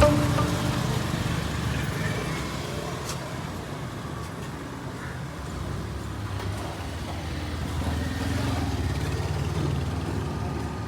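An engine running steadily, a low even hum that swells slightly about eight seconds in.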